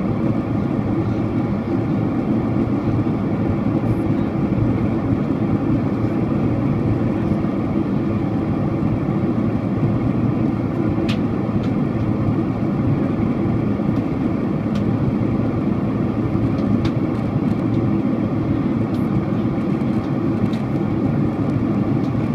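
Steady roar of rushing air and the Boeing 767-400ER's twin turbofan engines, heard inside the passenger cabin as the airliner flies in to land, with a few faint clicks.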